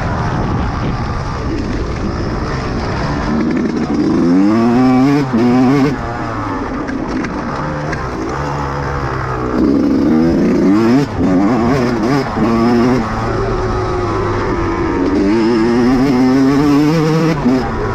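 Dirt bike engine revving as it is ridden, its pitch climbing in three strong rises of acceleration, with lower, steadier running in between.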